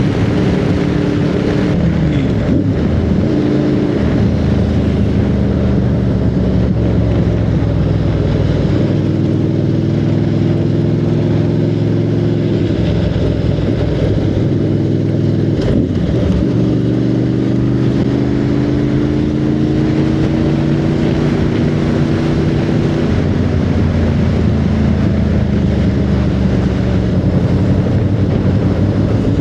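Motorcycle engine running under way, its pitch climbing slowly and then dropping sharply a few times as it shifts gears, over a steady rush of low noise.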